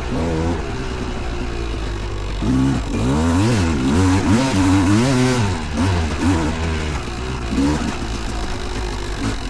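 A vintage two-stroke motocross bike engine revving up and down repeatedly while riding in sand, loudest in the middle, then running steadier with one more short rev near the end.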